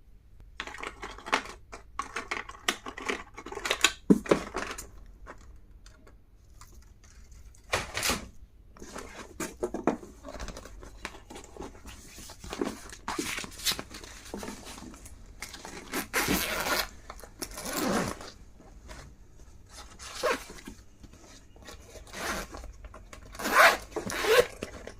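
Stationery packaging being handled and opened by hand: irregular rustling, tearing and scraping bursts, with a few sharper, louder handling noises, the loudest near the end.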